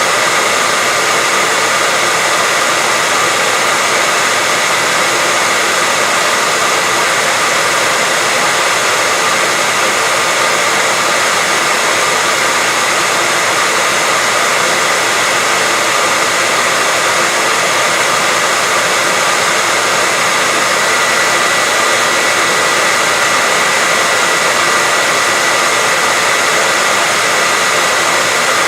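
Continuous white noise: an even, unchanging hiss weighted toward the high end, with a faint steady whine running through it.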